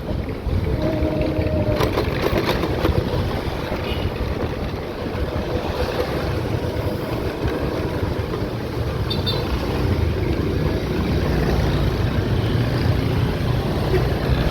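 A vehicle travelling on the road: steady engine and road rumble with wind buffeting the microphone.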